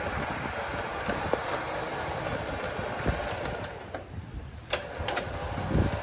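A vehicle running with steady rumbling and rattling, scattered sharp clicks and knocks, easing off about two-thirds of the way through, then a louder low thump near the end.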